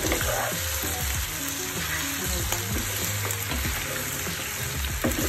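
Beef oxtail pieces with onion and garlic sizzling in a frying pan while a wooden spatula stirs them, with short scrapes of the spatula against the pan.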